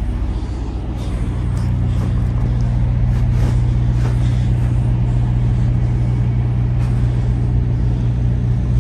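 A semi truck's diesel engine idling, a steady hum that grows a little louder about a second in.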